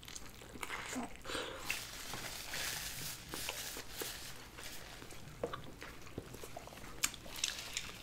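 Biting into a double cheeseburger and chewing it, with soft chewing noise and scattered small clicks.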